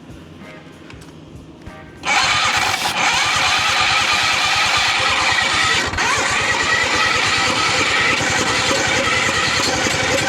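Hercules W2000 Wankel rotary engine being spun over in an attempt to start it: a loud, steady, rapid pulsing that sets in suddenly about two seconds in and keeps going.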